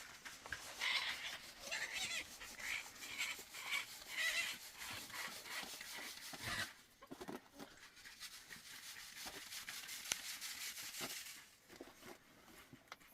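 Animal calls: a run of short, high cries in the first few seconds, over a background of hiss and clicks that fades near the end.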